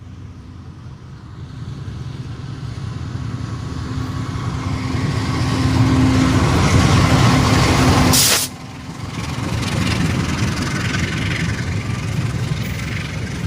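A train departing, its running sound growing steadily louder for about eight seconds with a steady low tone. Then a short, sharp hiss and a sudden drop, after which the running sound builds up again.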